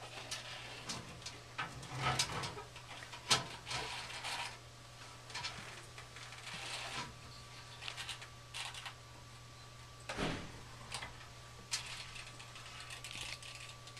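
Scattered light clicks, taps and scrapes as a pipe-inspection camera's cable is worked into a gas furnace's metal heat exchanger, over a steady low hum.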